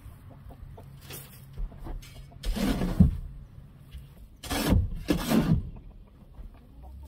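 A shovel scraping up old, broken-down bedding and litter from a chicken coop floor: about four strokes, with a sharp knock about three seconds in.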